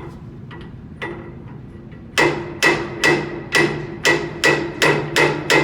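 Hammer striking metal: a few light taps, then a run of about nine hard, ringing blows at two to three a second.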